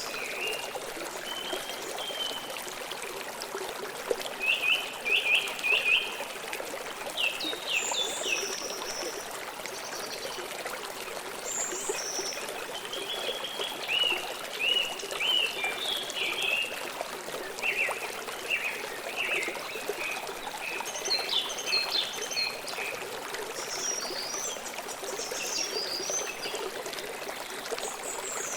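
Stream water flowing and trickling steadily, with birds calling over it in short repeated chirps and whistles.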